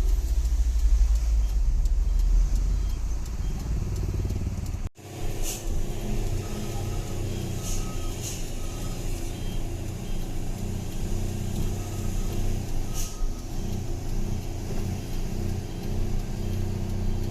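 Truck engine running, heard from inside the cab. A heavy low rumble is cut off abruptly about five seconds in, after which the engine runs steadily with a few light clicks and rattles.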